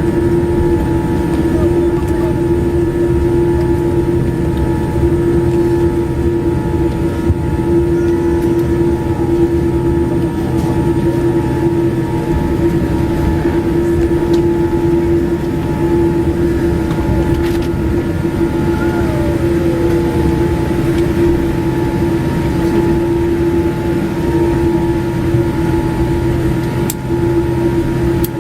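Steady cabin noise inside a Boeing 787-8 Dreamliner taxiing after landing: engines at idle and air-conditioning hum, with a constant low drone tone.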